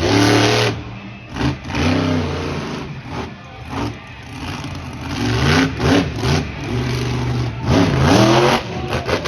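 Monster truck engine revving hard in repeated bursts, its pitch rising and falling again and again, with sharp cracks between the revs.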